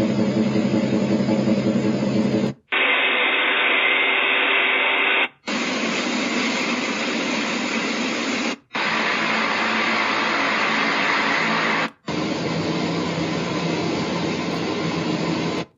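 White noise machine's speaker playing a run of recorded fan sounds, each a steady whooshing noise, some with a steady hum in it. The sound changes to a different fan recording about every three seconds, with a brief cut to silence at each switch.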